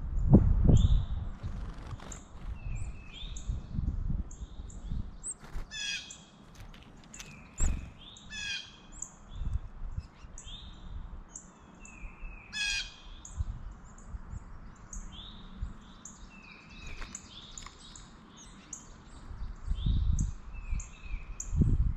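Several wild birds calling: many short high chirps repeating throughout, with a few harsh, caw-like calls in between. A few low thumps, the loudest about half a second in and again near the end.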